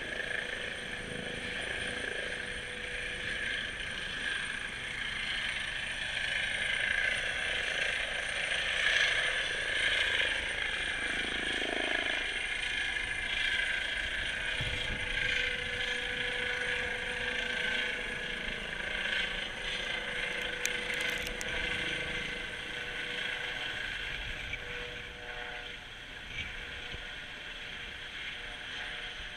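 Eurocopter EC135 helicopter's turbine engines and rotors running with a steady high whine, swelling in the middle and fading toward the end.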